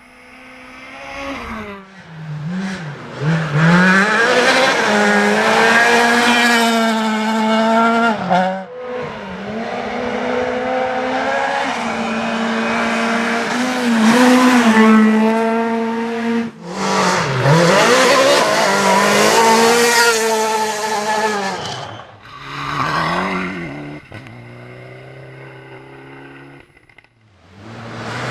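Rally cars driven hard on a stage, engines revving high and dropping back at each gear change, in several short passes cut one after another. Near the end a car's engine runs lower and more quietly.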